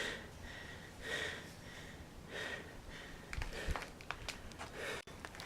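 A hiker breathing hard after a steep climb, with a rhythmic breath about every second and a quarter. A few light clicks, like footsteps or gear, come near the middle.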